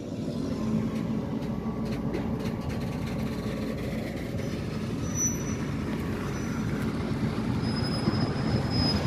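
Freight cars of a slow train rolling past: a steady rumble of steel wheels on the rails, growing slowly louder, with a cluster of sharp clicks about two seconds in.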